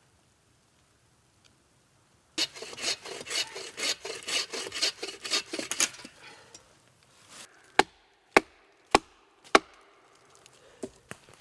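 Wood being handled and worked: a few seconds of scraping and crackling, then four sharp knocks about half a second apart and a few lighter clicks.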